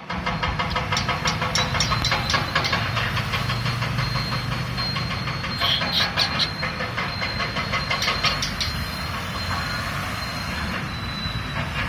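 Small pet parrot mimicking a JCB digger's engine: a fast, steady chugging clatter with a thin high whistle held over it.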